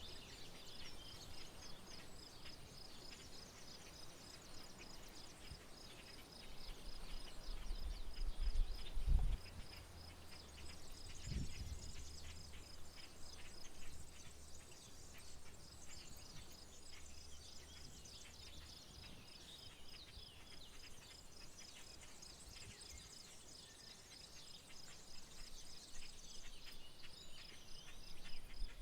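Insects chirping in a steady, evenly pulsed high trill, with scattered bird calls over it. A low rumble swells from about seven seconds in and fades a few seconds later; it is the loudest thing here.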